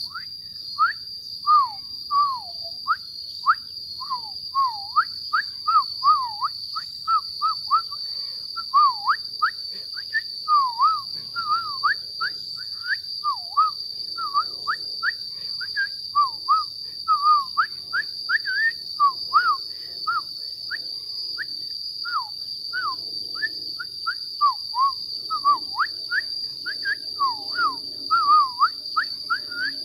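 A bird calling over and over in short whistled notes, many swooping down and back up, about two to three a second, over a steady high-pitched whine.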